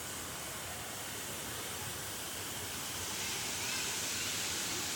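Steady rush of falling water from a waterfall, getting a little louder about three seconds in.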